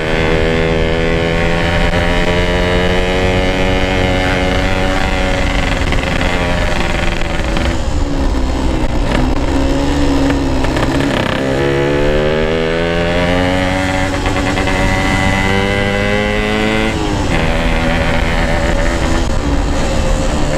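Yamaha RX-King's 135 cc two-stroke single-cylinder engine and exhaust running under way, heard from the rider's seat with wind noise. The engine note sinks from about eight seconds in, rises again a few seconds later, and shifts once more near seventeen seconds.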